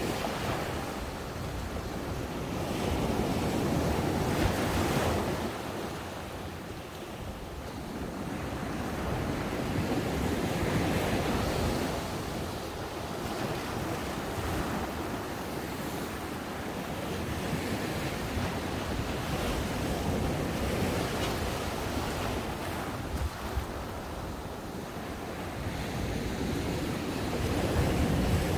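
Ocean waves breaking on a beach and washing up the shore, the surf swelling and easing every few seconds, with some wind on the microphone.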